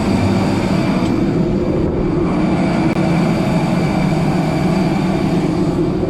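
Steady airliner noise: a loud, even hum with faint high whining tones, from a jet aircraft's running engines or auxiliary power unit.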